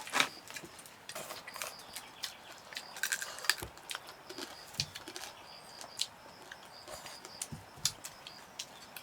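Scattered clicks and clinks of a meal being eaten: chopsticks and bowls, and crab shells being broken open. Faint insects chirping on and off behind.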